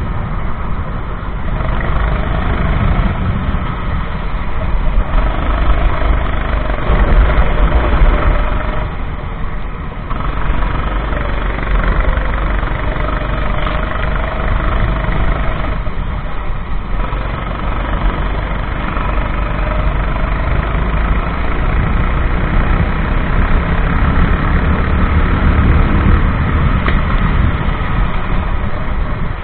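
Racing kart engine running hard, its pitch rising and falling as it accelerates and backs off, over a heavy low rumble. It drops off briefly twice, about ten and seventeen seconds in.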